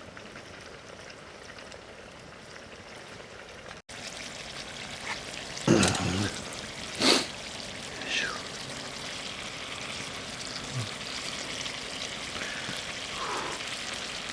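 Steady hiss of food cooking over a campfire. About four seconds in the sound cuts and comes back louder, with a few short, louder clatters around the middle.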